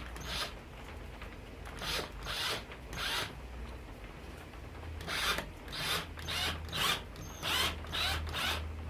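Cordless drill driving a screw into wood in a string of short bursts, pausing for a second or so partway through.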